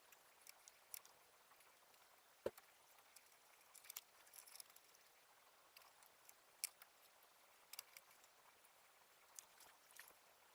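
Near silence broken by scattered faint clicks and taps, with one sharper knock about two and a half seconds in.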